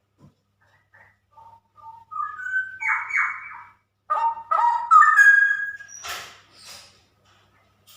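Straw-headed bulbul (cucak rowo) singing: a few short whistled notes, then a loud run of rapid warbled phrases from about two seconds in, ending in two short harsh bursts near the end.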